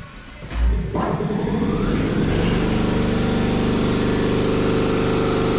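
A car engine starting up about half a second in, its revs flaring up briefly before settling into a steady idle.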